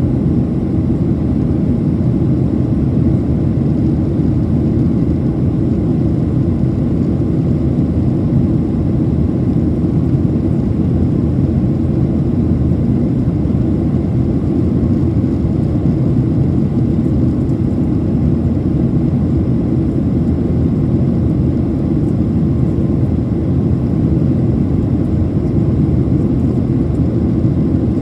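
Jet engines of a Boeing 737-800 making a steady low roar, with no change in level or pitch.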